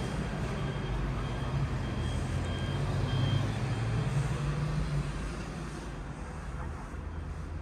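City road traffic with the steady low rumble of a large vehicle's engine, swelling a few seconds in, and a run of faint, evenly spaced high beeps in the first few seconds.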